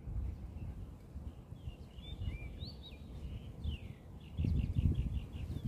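Birds calling: short gliding chirps, then a quick trill of about eight rapid notes about four seconds in, over a low outdoor rumble that swells near the end.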